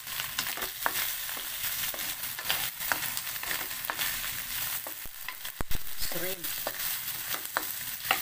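Shrimp sizzling in hot oil in a wok while a wooden spatula stirs them, scraping and tapping against the pan in irregular clicks, with a louder knock a little past halfway.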